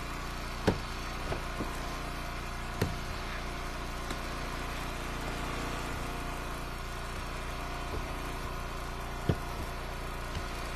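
Gas engine of a hydraulic log splitter running steadily, with three sharp knocks, at about one second, three seconds and near the end.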